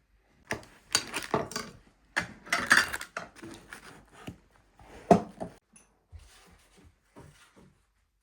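Kitchen clatter of dishes, pots and utensils being handled: irregular knocks and scraping, the sharpest knock about five seconds in.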